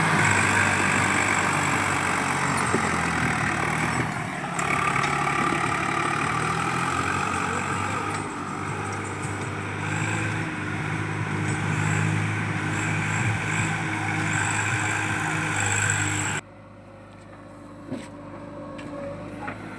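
Heavy diesel engine running steadily under load, as on the earth-moving machinery loading soil. It cuts off abruptly about sixteen seconds in, leaving a much quieter background with a few faint clicks.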